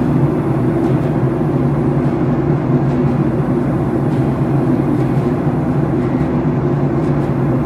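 Steady low engine rumble from a vehicle or aircraft, holding an even level with no rise or fall.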